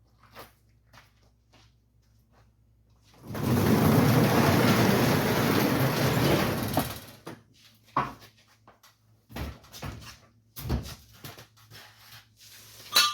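A door sliding shut, a loud even scraping slide lasting about four seconds. Then come a few separate thumps and a sharp knock with a short ring near the end.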